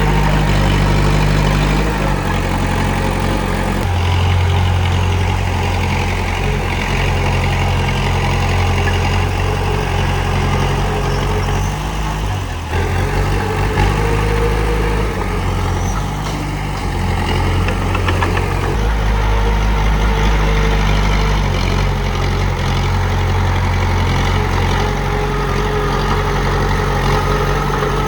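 Diesel engine of a Komatsu D31P bulldozer running, a steady low drone whose pitch steps up and down a few times as the load changes, with a brief dip about halfway through.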